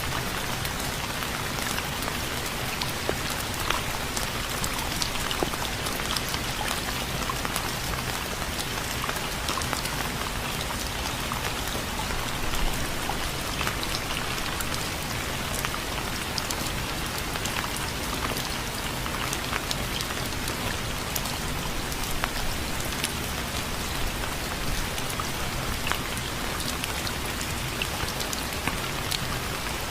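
Steady rain falling and pattering on surfaces, a dense even hiss with many small drop ticks.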